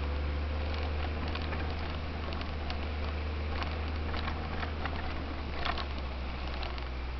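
Four-wheel-drive vehicle engine running at a steady low drone on a dirt track, with scattered light clicks and rattles over it.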